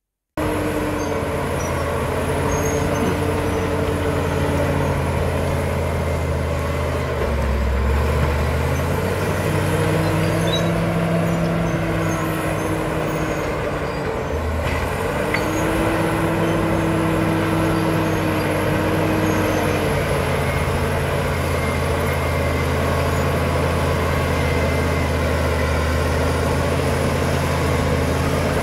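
Caterpillar D7 bulldozer's diesel engine running steadily, its pitch dipping and shifting twice as the engine speed changes.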